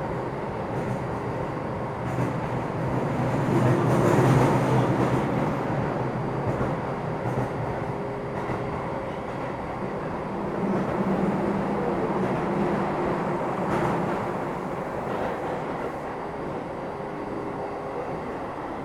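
Keio 7000 series electric commuter train running, heard from on board: a steady rumble of wheels on rail and running gear with a faint motor hum, swelling louder about four seconds in and again near the middle.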